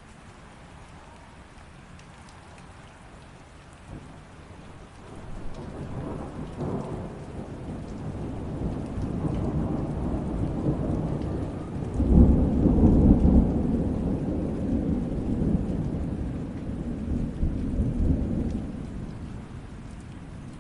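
Steady rain with a long, low roll of thunder that builds about a quarter of the way in, is loudest just past the middle, and slowly fades near the end.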